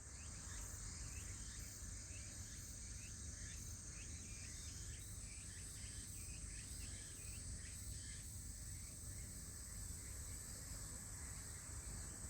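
Autumn insects singing: one keeps up a steady high-pitched trill, while a second, lower series of quick repeated chirps runs alongside it and stops about eight seconds in. A faint low rumble lies under them.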